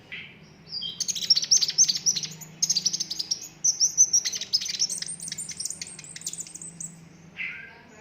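Sunbird singing: a short high call, then about a second in a long run of fast, sharp, high-pitched trills and rattling phrases that climbs higher in its second half and stops near the end, followed by a few lower chirps.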